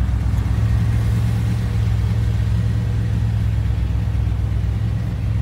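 1971 Chevrolet Blazer's engine idling steadily, heard from inside the cab.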